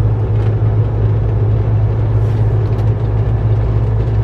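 Kenworth T660 semi truck's diesel engine and road noise, a steady low drone heard from inside the cab while driving.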